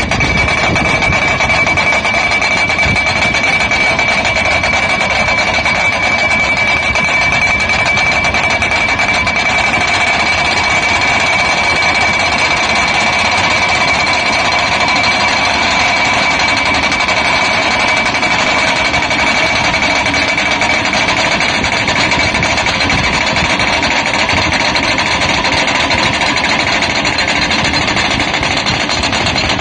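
Hydraulic hammer of an SPV-60Y solar pile driver pounding a steel pile into the ground, blows so rapid they blend into one continuous rattle, with a steady high ringing tone over it. It starts and stops abruptly.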